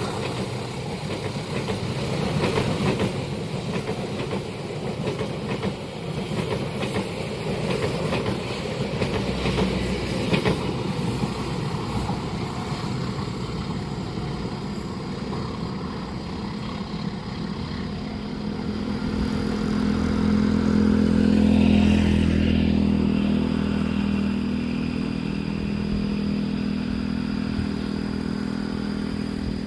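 Train passing a level crossing, wheels clattering over the rails. About two-thirds of the way through, a low engine hum swells and then eases off.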